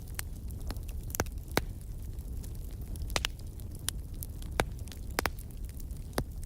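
Log fire crackling, with sharp pops about once a second over a low, steady rumble.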